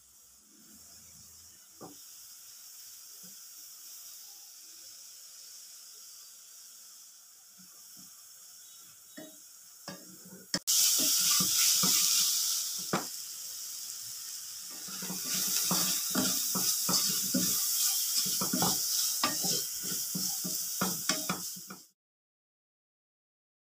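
Shredded cabbage, carrot and peas sizzling as they fry in a steel pan, stirred with a wooden spatula that scrapes and knocks against the pan. The sizzle is faint at first and turns loud about halfway through, with frequent scrapes, then cuts off suddenly near the end.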